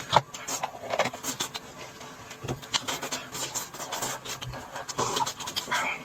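Eating and tableware noises: irregular small clicks, scrapes and rubbing, with some chewing or slurping.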